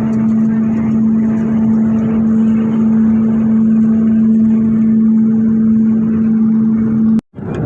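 Steady engine drone heard inside an airliner cabin: an even rushing noise with a steady low hum, cutting off suddenly near the end.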